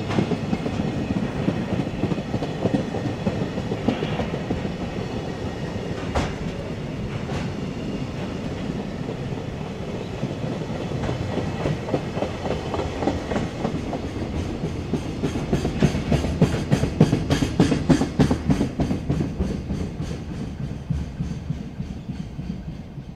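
Freight train of container flatcars rolling past, a steady low rumble with the wheels clacking over the rail joints. The clacking is loudest in the second half, then the sound fades near the end as the last wagon goes by.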